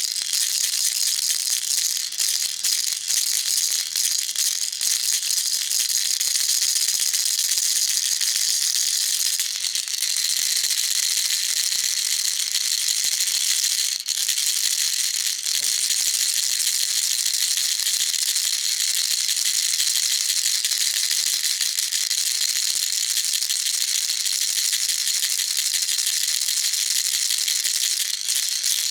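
Baby rattle shaken without a break, a dense steady hiss of small beads or pellets clicking inside it.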